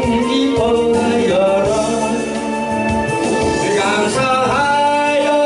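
A Korean gospel song: a male voice sings the line "rejoice" in long held notes over steady instrumental backing.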